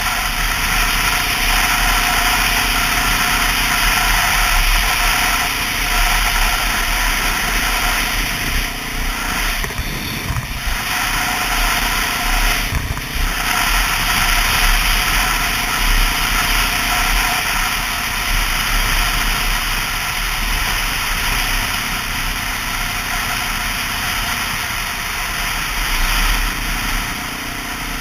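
2002 Honda XR650L's single-cylinder four-stroke engine running steadily under way, mixed with a constant rush of wind noise.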